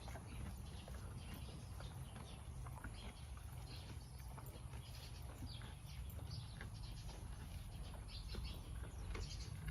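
A cow grazing: irregular crisp snaps and crunches as it tears off and chews grass, over a low steady rumble.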